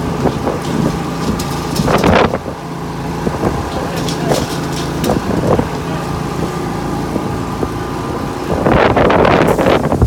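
A vehicle engine running steadily with a low hum. Louder bursts of rushing noise come about two seconds in and again near the end.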